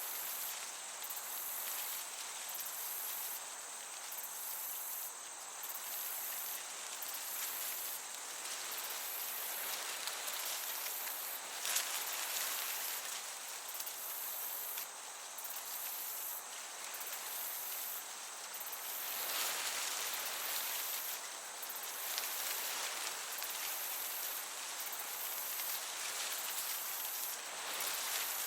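Meadow crickets chirping in a steady high-pitched rhythm, about one pulse a second, over the soft hiss of a breeze that swells briefly about twelve seconds in and again around twenty.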